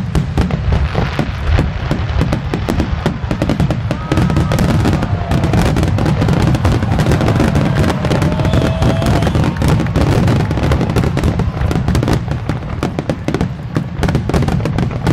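Aerial fireworks shells bursting in a rapid, continuous barrage: a dense run of booms and crackling without a break.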